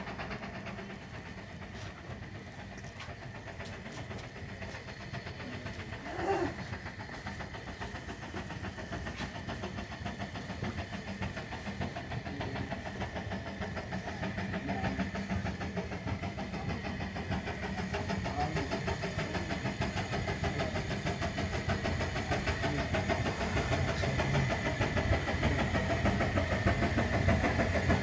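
Narrow-gauge train running along the line, a steady rumble that grows louder toward the end. A short, sharper sound stands out about six seconds in.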